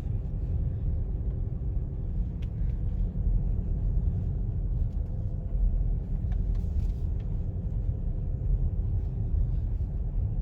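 Steady low rumble of a car driving slowly over snow and ice, heard from inside the cabin, with a faint steady engine hum.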